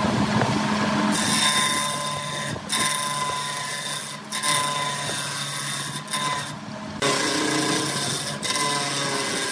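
Wood lathe running with a steady motor hum while a turning tool cuts the spinning wood, giving a loud hissing scrape. The cutting breaks off briefly several times as the tool is lifted and put back.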